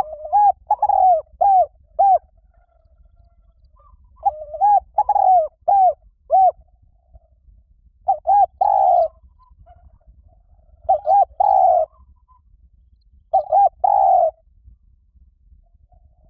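Spotted dove cooing: five phrases of mellow, bending coo notes, the first two longer with several notes each, the later three shorter, with pauses of one to two seconds between them.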